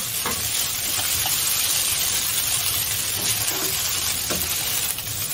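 Rice vermicelli sizzling in a hot oiled nonstick wok as it is stir-fried with chopsticks: a steady hiss with a few light taps.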